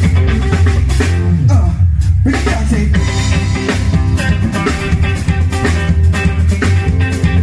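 A band playing, with guitar and a drum kit over a steady bass line; about a second in, a falling slide drops in pitch.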